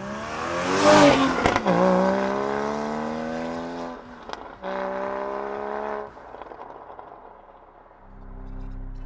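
Sports car engine revving hard as the car passes close, loudest about a second in, its pitch then falling as it moves away. A shorter, steadier burst of engine note follows in the middle.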